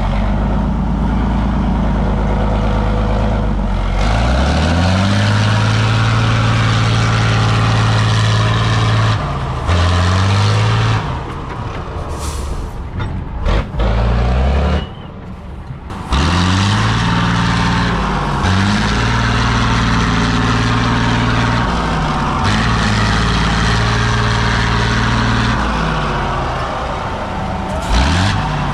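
Heavy off-road trial truck engines running hard under load, the revs repeatedly climbing and dropping. The sound goes quieter for a few seconds a little past halfway.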